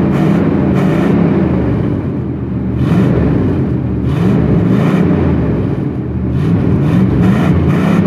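Carbureted 350 V8 of a 1991 Chevrolet 2500 pickup running after a cold start, its speed rising and falling in slow waves. The stock exhaust has a leak, which the owners can hear.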